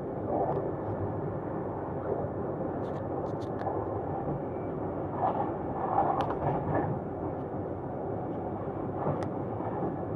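Passenger train running along the line, heard from inside the carriage: a steady rumble with a few short, sharp clicks.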